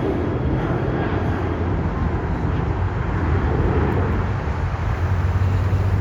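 Jet airliner passing close by, a loud steady rush and low rumble of jet engines.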